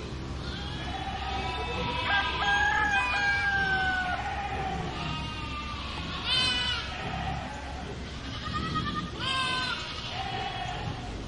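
Farmyard animal calls. A rooster crows in long held notes about two seconds in, and short loud calls come at about six and nine seconds.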